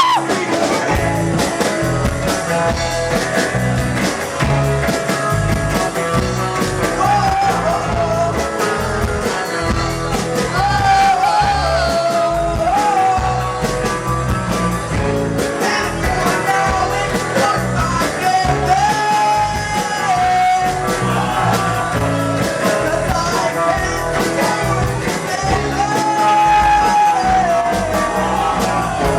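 Rock band playing a song: electric guitars, bass and drums with a lead vocal, with held, bending melody notes throughout.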